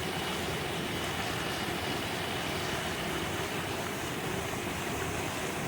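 Steady rush of water from a cascading mountain stream and waterfall, an even hiss-like roar with no breaks.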